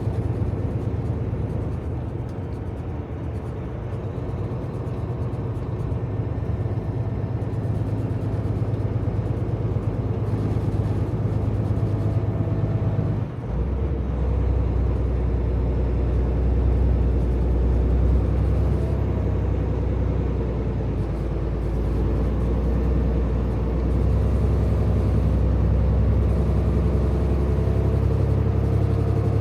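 Semi truck's diesel engine running steadily under way. About halfway through there is a brief break, and then the engine note drops lower, as with a gear change.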